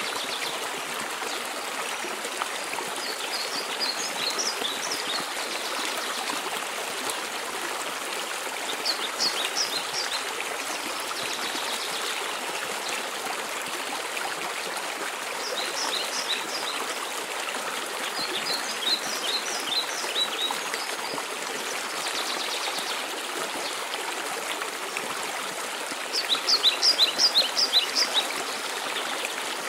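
Waterfall water running in a steady hiss, with a songbird singing short series of quick high notes every few seconds; the loudest series comes near the end.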